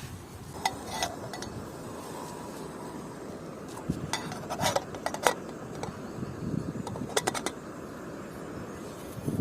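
Metal spoon and camp cookware clinking and scraping: scattered light clinks, with a quick run of three about seven seconds in, over a steady low background.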